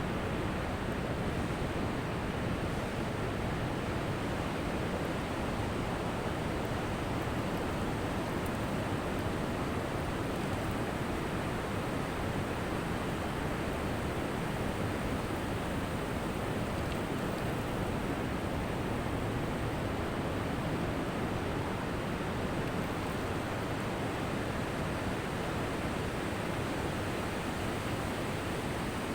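Ocean surf washing onto a beach: a steady, even rushing noise with no separate wave crashes standing out.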